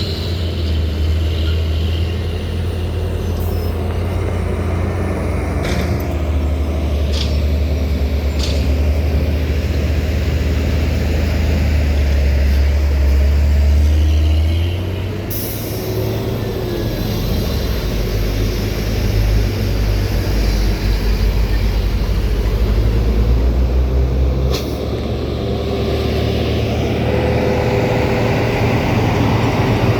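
Heavy diesel dump truck engines running with a deep, steady rumble, the engine note shifting about halfway through and again near the end. A few sharp clicks and a brief hiss, like an air brake release, stand out over it.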